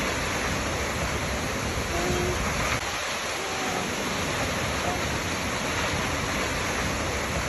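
Waterfall rushing steadily, an even unbroken noise of falling water, with a few faint short tones over it.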